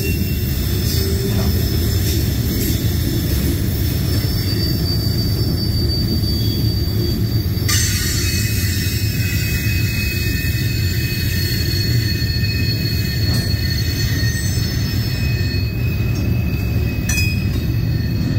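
Loaded Herzog gravel cars rolling past in a steady, heavy rumble of steel wheels on rail, with thin high-pitched wheel squeal tones that come and go.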